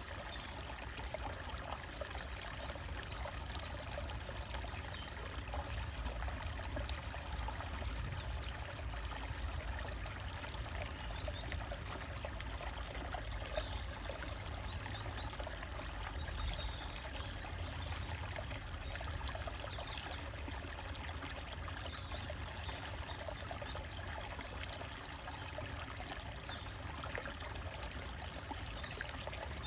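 Small stream trickling and splashing over rocks, a steady running-water sound.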